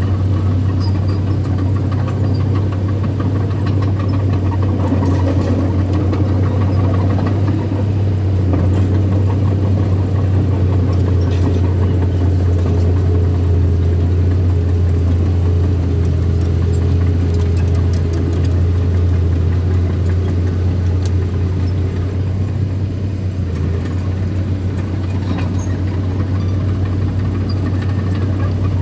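Diesel engine of earthmoving machinery running steadily under load, with a deep continuous hum and a few faint clanks.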